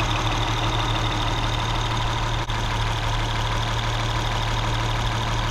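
Acura V6 with RV6 high-flow catalytic converters and J-pipe exhaust idling steadily.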